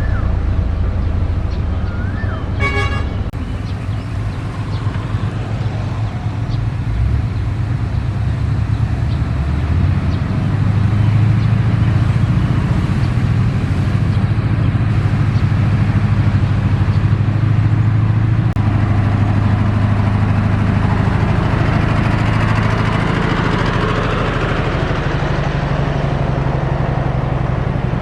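Heavy diesel construction machinery running steadily under load. A brief horn toot sounds about three seconds in, and a hissing rush swells and fades in the last third.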